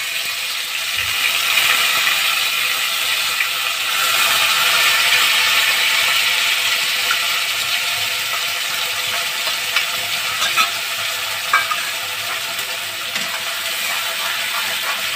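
Wet ground onion, tomato, garlic and chilli paste sizzling steadily in hot oil with cumin in a kadhai. Near the end a spatula scrapes and stirs it, adding light clicks.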